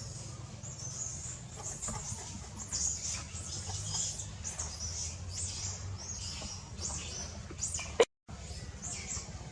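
Baby monkey squeaking over and over in short, high-pitched calls. A sharp click and a brief dropout about eight seconds in.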